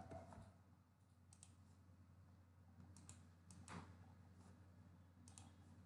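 Near silence with a low steady hum and a few faint, scattered clicks, some in quick pairs.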